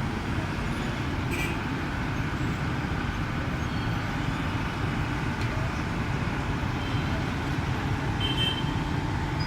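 Steady low rumble of heavy vehicle engines and road traffic.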